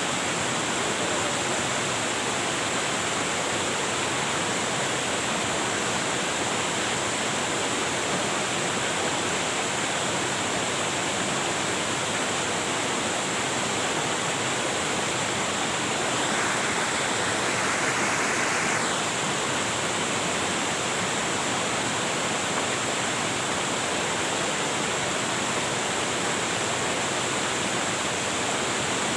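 Waterfall: a steady, even rush of falling water, which swells briefly in its hiss a little past the middle.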